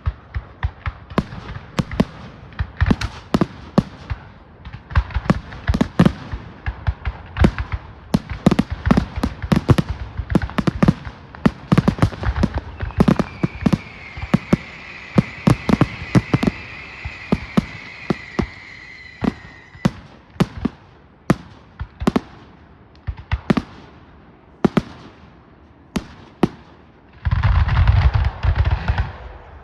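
Fireworks display: a rapid string of bangs and crackles, several a second. About halfway through, a long whistle slowly falls in pitch over several seconds, and near the end the bangs give way to a dense, continuous burst.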